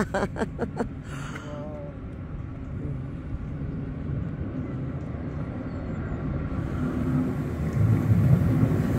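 Electric double-deck passenger train approaching a level crossing, its low rumble growing steadily louder over the last few seconds; no horn is sounded.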